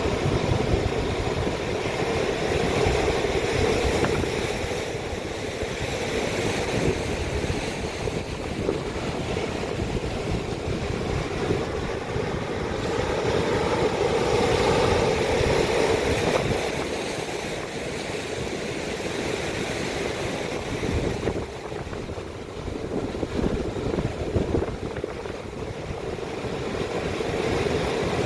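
Atlantic waves surging and breaking against rock, a continuous rushing wash that swells and ebbs every several seconds, with wind rumbling on the microphone.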